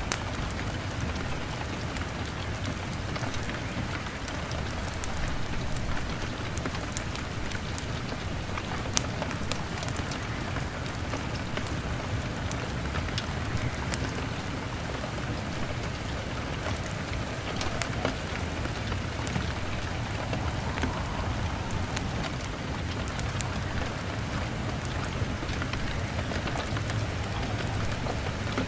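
Steady rain hitting a window pane, an even hiss with many sharp little clicks through it, mixed with the pops of a crackling log fire.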